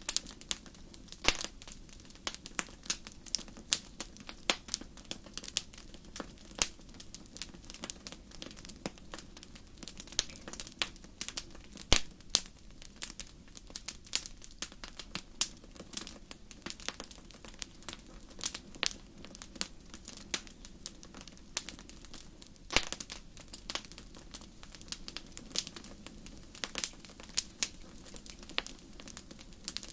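Wood fire crackling: irregular sharp pops and snaps, a few louder ones, over a low steady hiss.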